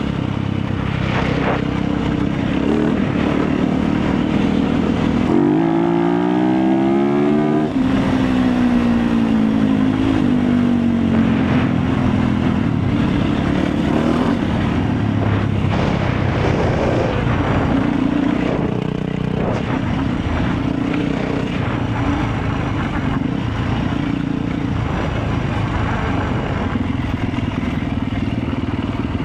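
Motorcycle engine running under way, with a steady drone and rushing noise. A bit over five seconds in, the engine pitch climbs for about two seconds, then falls away again over the next few seconds.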